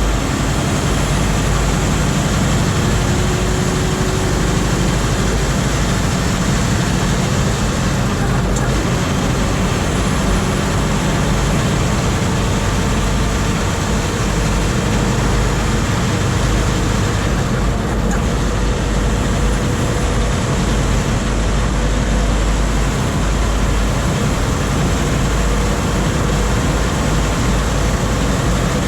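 Scania R520's 16-litre V8 diesel running steadily under way, pulling a heavily loaded truck and trailer, mixed with road and tyre noise.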